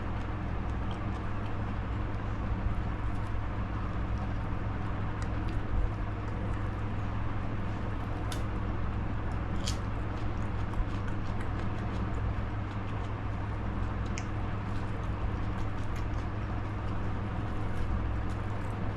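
A person chewing a fried jali kabab close to the microphone, with small clicks and crackles over a steady low hum.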